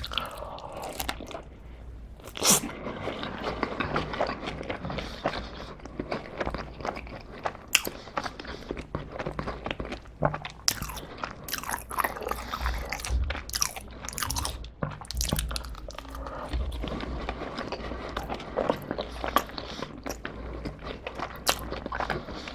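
Close-miked biting and chewing of a pizza crust, a dense run of small sharp crackles from mouth and teeth with a few louder bites.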